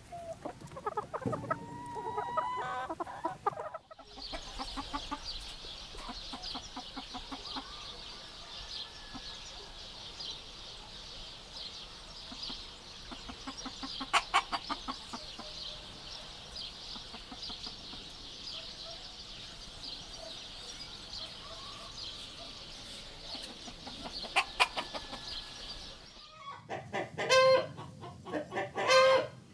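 Chickens clucking, in a few separate recordings joined by abrupt cuts. A dense, high-pitched chatter runs through most of it, with louder clucks near the end.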